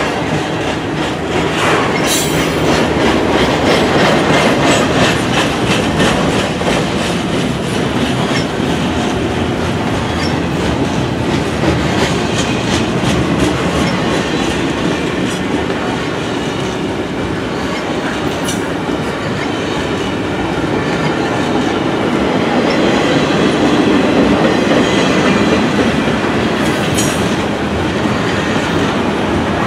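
A train's cars rolling steadily past at close range, the wheels clicking rhythmically over rail joints, with a few sharp metallic squeals or clanks about two seconds in, past the middle and near the end.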